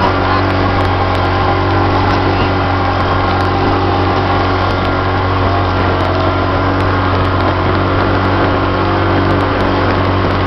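Johnson 25 HP outboard motor running steadily at an even speed, its pitch and level holding constant.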